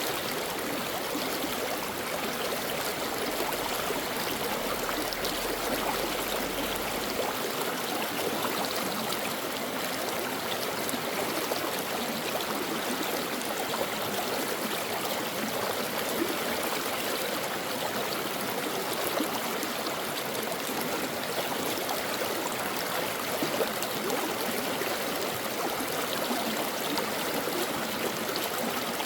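Shallow stream flowing over rocks: a steady babbling and splashing of running water, with fine trickles and gurgles.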